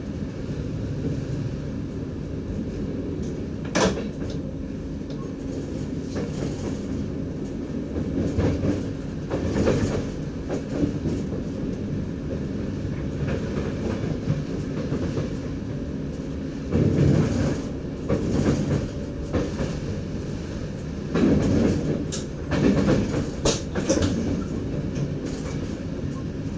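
NS DDZ double-deck electric train running, heard from the driver's cab: a steady low rumble with a sharp click about four seconds in and bursts of louder clatter, several of them near the end.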